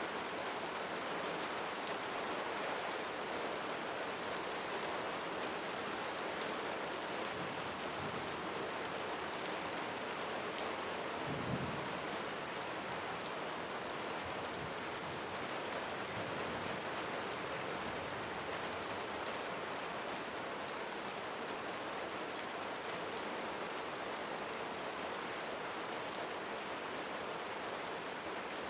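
Steady rain falling on leaves, a dense even hiss with the ticking of individual drops. About a third of the way in there is one brief low rumble.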